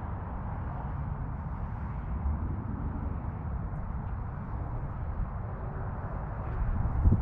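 Low, steady rumble of a mid-muffler-deleted Dodge Charger V8 exhaust, swelling louder near the end.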